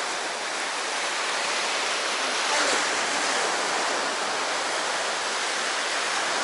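Sea waves washing steadily on the shore, swelling slightly a little over halfway through.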